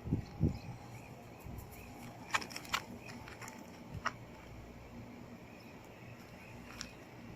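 Faint bird chirps over a quiet background, with two soft low thumps right at the start and a few sharp clicks scattered through.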